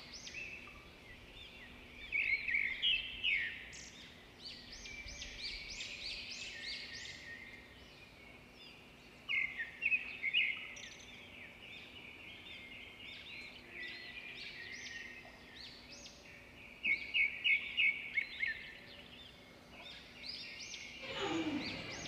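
Small birds chirping and twittering, with three louder bursts of quick repeated chirps spread through.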